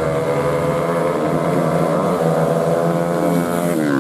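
Stock Yamaha Vega underbone motorcycles' four-stroke single-cylinder engines running hard at high revs in a drag race, the pitch falling near the end.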